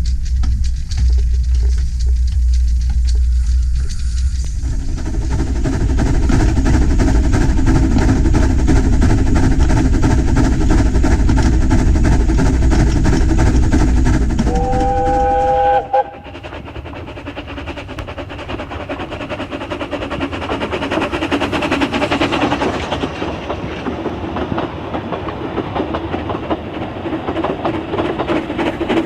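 Narrow-gauge steam train running with a heavy rumble. A steam whistle blows briefly just past the middle. The sound then changes abruptly to the train running more quietly with rhythmic clatter.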